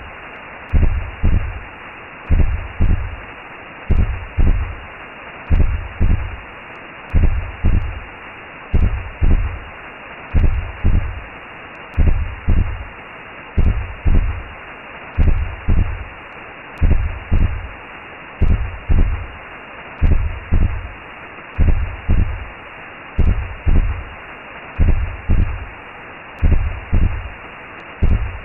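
Recreated womb sound: a slow heartbeat, a deep double thump about every 1.6 seconds, over a steady whooshing hiss like blood flow heard from inside the belly.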